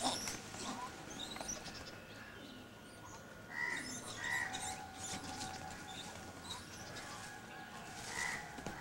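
Birds chirping, scattered short calls with a few louder ones in the middle and again near the end, over a faint steady whine.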